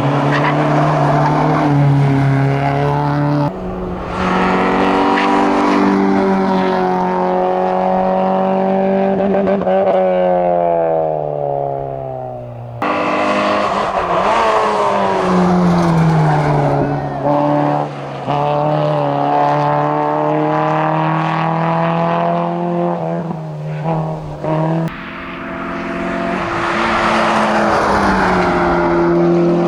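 Citroën Saxo VTS hillclimb car's 1.6-litre sixteen-valve four-cylinder at full throttle, revs climbing and dropping with each gear change as it passes, heard in several cut-together stretches. Near the end a second hillclimb car, a Peugeot 206 XS, comes up with its engine note rising.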